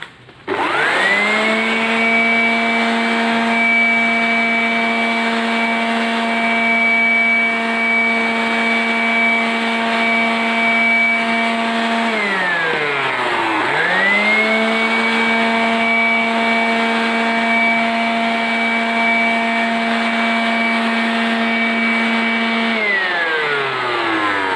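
Handheld electric centrifugal air blower blowing dust out of a split AC's air filters. It spins up to a steady high whine and runs for about eleven seconds, winds down, starts again straight away and runs about nine seconds more before winding down near the end.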